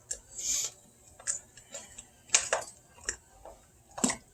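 A utensil clinking, knocking and scraping against a dish while the chicken, corn, onion and spice mix is stirred: scattered irregular clicks, a short swish about half a second in, and a few louder knocks.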